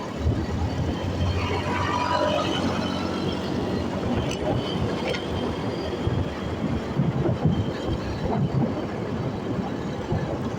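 Motorcycle riding on the road: the engine running under steady road noise.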